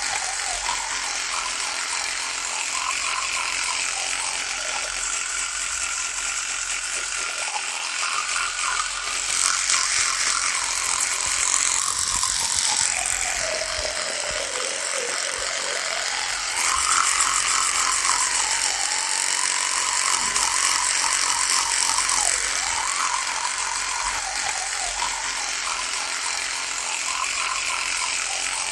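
Electric toothbrush running with a continuous buzz. Its pitch wavers and sags for a few seconds midway, and it grows louder and brighter in two stretches.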